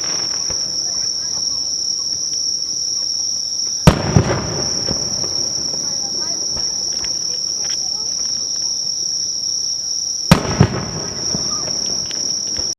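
Aerial firework shells bursting close by: two loud bangs, about four and ten seconds in, each followed a moment later by a second crack and a rumbling echo. A steady high insect trill runs underneath.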